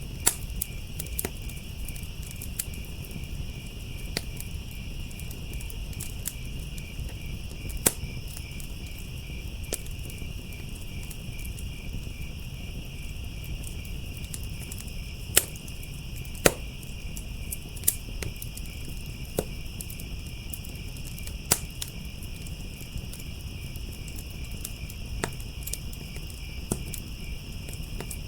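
Firepit crackling with sharp pops every few seconds, over crickets chirping steadily.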